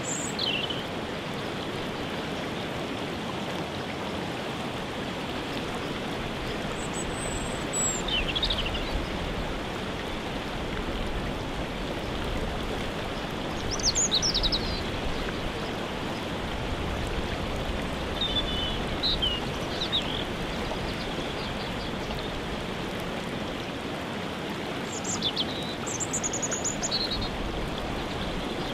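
Steady rushing of falling water from a waterfall, with small birds singing short high phrases every few seconds over it.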